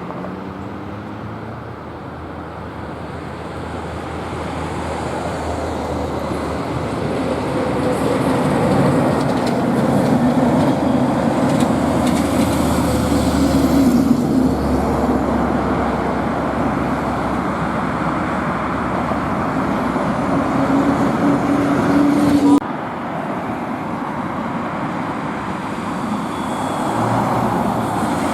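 Road traffic with trucks and other vehicles driving past: tyre noise and engine drone that build up and stay loud for a while, then drop suddenly about two-thirds of the way through before continuing more quietly.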